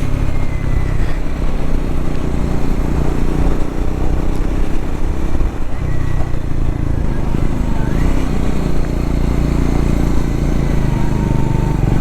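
Triumph Scrambler 400X's single-cylinder engine running steadily under way. The engine note dips briefly a couple of times.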